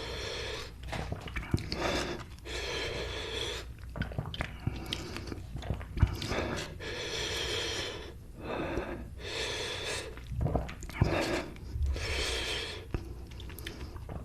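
A person breathing hard in and out through the mouth, in repeated breaths about half a second to a second long, with chewing and sharp mouth clicks between them. This is a reaction to the burn of an extremely hot chili chip.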